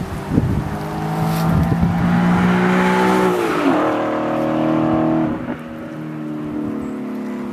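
Modified 2011 Audi S5 with an AWE non-resonated exhaust and downpipes, its 4.2 V8 running at a steady note as the car drives past: the engine note drops sharply in pitch as it passes about three and a half seconds in, then fades away.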